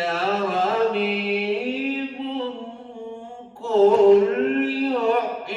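A man reciting the Quran in a melodic, chanted style, drawing out long held vowels on the words 'wa hiya ramim', with a short break about three and a half seconds in before he starts 'qul'.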